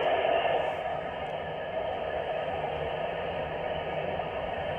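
Steady hiss of static from a CB radio receiver on 27.205 MHz FM, listening for a Swedish parrot repeater to play back a call. The hiss is a little louder at first and settles about a second in.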